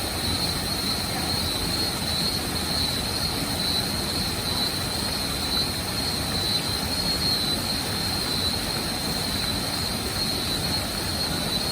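Steady roar of falling water from a waterfall, even and unbroken, with a constant high whine running over it.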